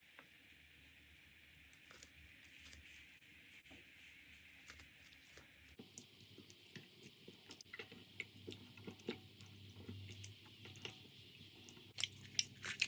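Slime being handled and pressed: quiet sticky squishing with scattered small clicks and pops, growing busier after about six seconds, with a few sharper crackles near the end.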